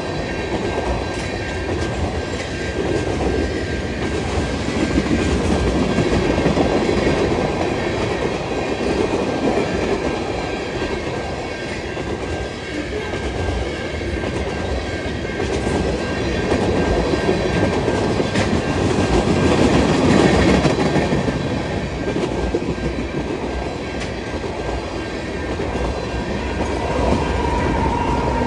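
Freight train cars rolling past at speed, a steady rumble with wheels clicking over the rail joints. A faint high whine appears near the end.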